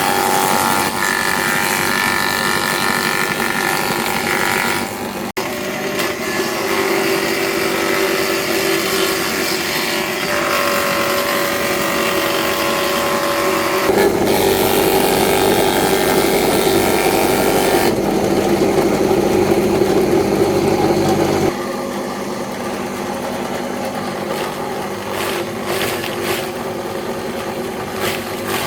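A machine motor running steadily, its hum shifting abruptly several times as the sound changes from one stretch to the next.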